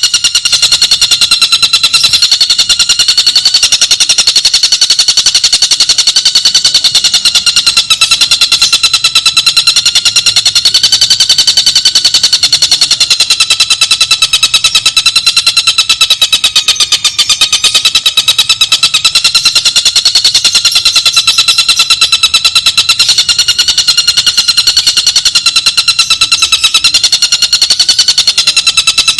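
Recorded birdsong of a tengkek buto: one continuous, rapid, buzzing trill, pulsing many times a second and wavering slightly in pitch.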